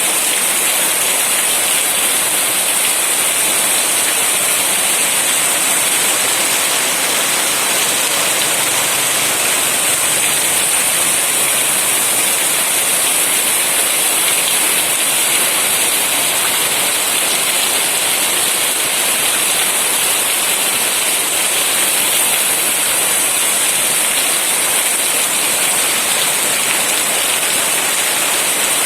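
Monsoon rain falling steadily, an even unbroken hiss with no let-up.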